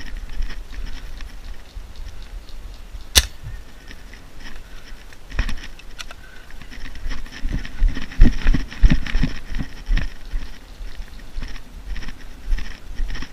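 Rustling and low thuds of an airsoft player moving with gear, with a cluster of heavier knocks and thumps from about seven to ten seconds in. One sharp snap comes about three seconds in.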